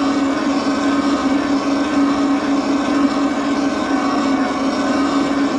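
Electric bike riding at a steady speed: a constant motor whine and hum over rolling tyre and wind noise.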